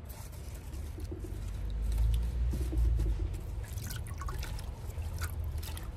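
A dove cooing in the background in two short phrases, about a second in and near the middle. Small splashes and trickles of water come from plants being handled in a water bath, with a low rumble throughout.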